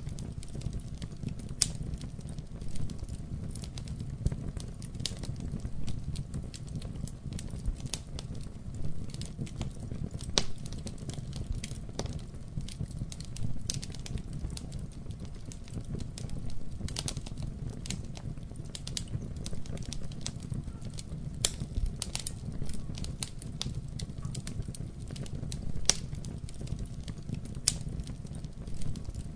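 Wood fire burning steadily in a fireplace, a low rushing rumble with frequent irregular sharp crackles and pops.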